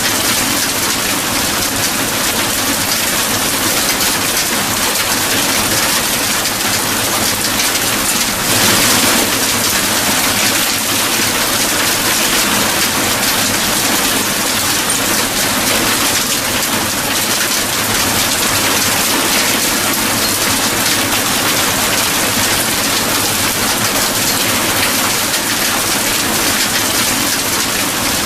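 Steady heavy rain pattering on a surface, an even hiss without a break, swelling briefly louder about a third of the way through.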